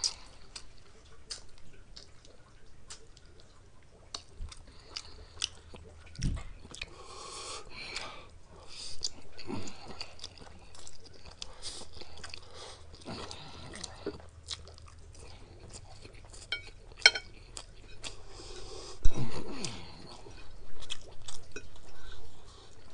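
A man chewing and slurping noodles close to the microphone, with many short wet mouth clicks and a few louder slurps, the loudest about nineteen seconds in.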